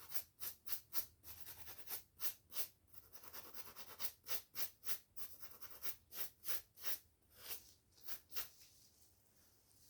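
Quick, rhythmic strokes through hair and over the scalp, brushing and scratching at about two to three strokes a second, each a short dry scratchy rasp. The strokes ease off into a brief lull near the end.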